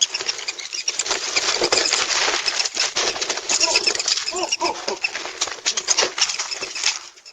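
Birds calling and fluttering: a busy crackle of wing-beats with short calls, stopping just before the end.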